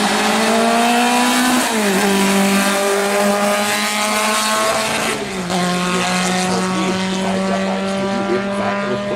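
Classic car's engine pulling hard along a straight. Its pitch climbs and falls at an upshift about two seconds in, rises slowly, falls at a second upshift about five seconds in, then holds steady.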